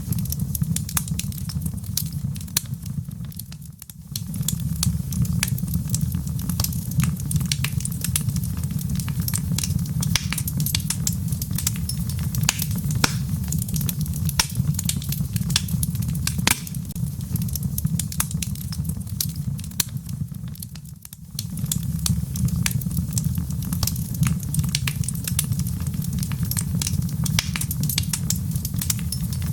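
Wood fire crackling, with frequent sharp irregular pops over a steady low rumble, mixed with gentle rain. The whole sound dips briefly about four seconds in and again about 21 seconds in.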